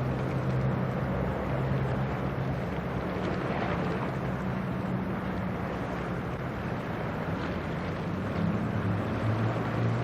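Low, steady drone of a passing cargo ship's engine, a calcium carbonate carrier, with wind buffeting the microphone.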